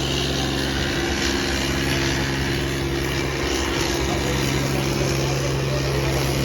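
Diesel tractor engines running steadily at high throttle, as in a tractor tug-of-war between an Eicher 557 and a Kubota 5501.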